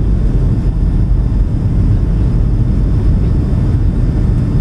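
Steady cabin noise of a Boeing 757-200 airliner on approach, heard from inside the cabin: a constant low rumble of engines and airflow.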